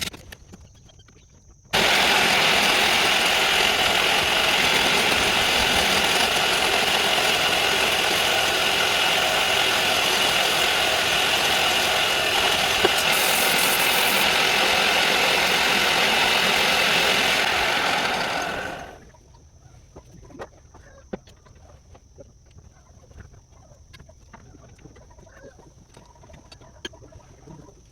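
A loud, steady mechanical running noise starts abruptly about two seconds in and dies away over about a second some seventeen seconds later, leaving only faint scattered clicks.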